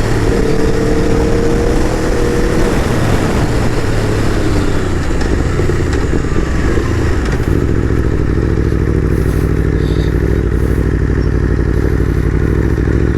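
Aprilia RSV4 RF's V4 engine running under wind rush, its pitch falling as the bike slows. From about seven seconds in the rushing fades and the engine settles into a steady low pulse at low speed.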